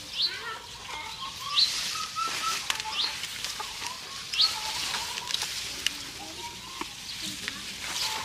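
Birds calling: one repeats a short, high, rising chirp about four times in the first half, over softer scattered twittering. Scattered crisp clicks and rustles come from cattle tearing and chewing bamboo leaves.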